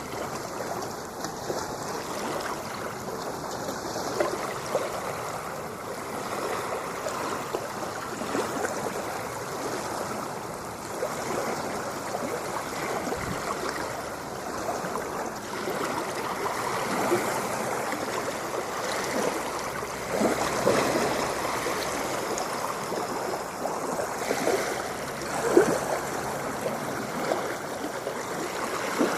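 Ocean water lapping and washing, a steady splashing wash with small gurgles and a louder splash near the end.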